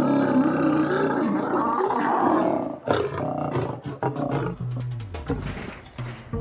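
Asiatic lions roaring during mating, a loud call that ends about three seconds in, with background music.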